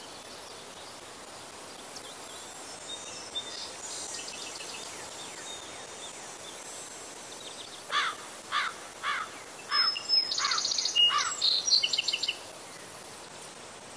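A songbird singing outdoors: a run of clear notes each sliding downward, about two a second, then a quick jumble of high notes, starting about eight seconds in and stopping a few seconds later, over faint steady outdoor background noise.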